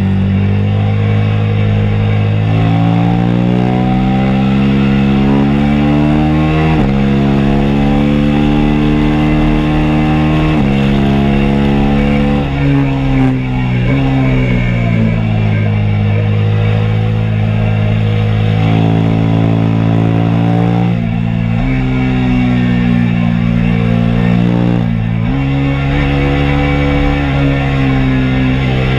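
2022 KTM RC 390 single-cylinder engine at full track pace, heard onboard over wind rush. The engine note climbs under acceleration with sudden pitch jumps at gear changes about 7 and 11 seconds in, falls while slowing in the middle, then climbs again with further shifts near the end.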